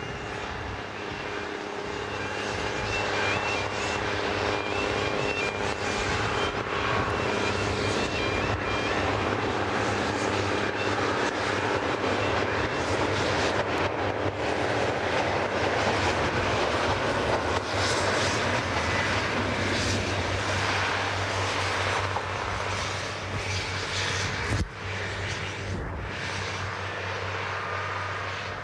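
Diesel train running, its engine drone building over the first few seconds and then holding steady. An electronic beeping alternating between two pitches sounds for roughly the first ten seconds.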